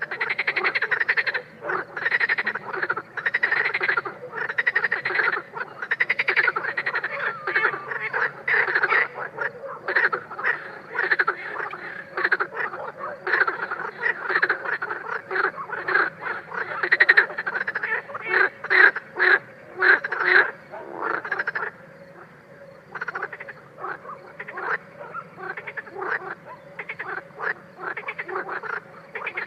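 A chorus of frogs calling, with many short croaks in quick succession overlapping one another; the calling thins out after about twenty seconds.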